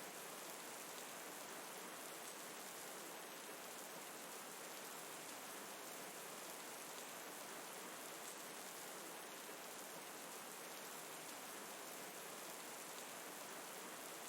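Steady, faint rain hiss, even throughout with no distinct drops or crackles standing out.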